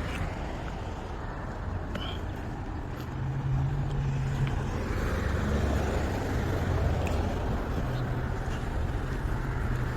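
A car engine running close by, a low steady hum that grows stronger about three seconds in and again near the end.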